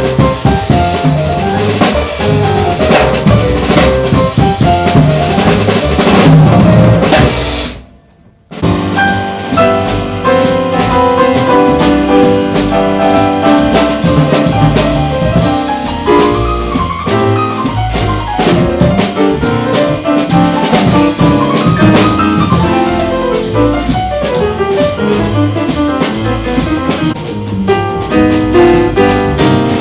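Jazz piano trio playing. The drum kit is to the fore for the first eight seconds or so, then there is a short sudden break, and piano, bass and drums come back in together.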